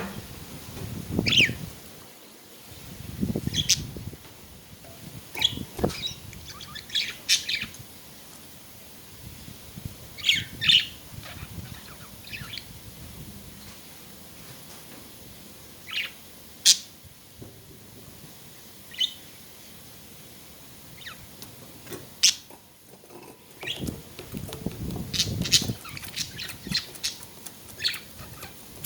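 Budgerigars chirping in short, scattered calls. A low rumbling noise sits under them at the start and again near the end.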